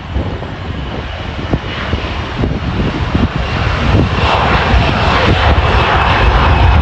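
Condor jet airliner's engines at full takeoff thrust (TOGA) on the takeoff roll, a loud jet noise with a steady high whine, growing louder about four seconds in.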